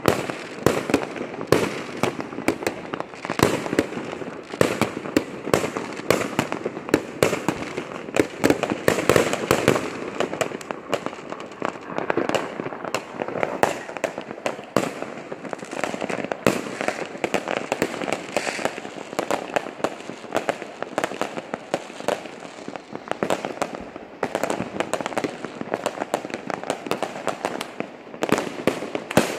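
Aerial fireworks going off many at once: a dense, unbroken run of overlapping bangs.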